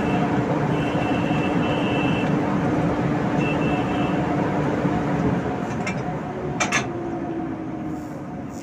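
A train running past, a loud steady rumble with a high tone that comes and goes. The rumble fades after about five seconds, and two sharp clicks come near the end.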